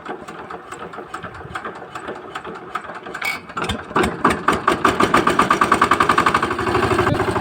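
13 hp power tiller's single-cylinder diesel engine on a cold start: irregular clicking and knocking while it is cranked, then it catches about four seconds in and runs with rapid, evenly spaced firing strokes that grow louder.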